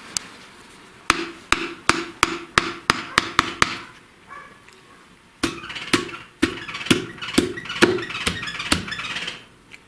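A piston being tapped down into a VAZ-2102 engine's cylinder bore through a piston ring compressor sleeve with a hammer: two runs of about eight sharp taps each, roughly two to three a second, with a short pause between runs. Each tap leaves a short metallic ring.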